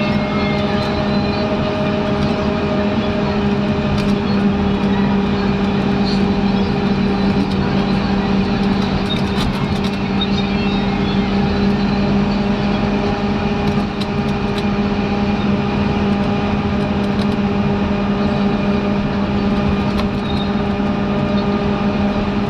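Scania N230UD double-decker bus's five-cylinder diesel engine running at a steady speed, a constant-pitched drone that holds level throughout.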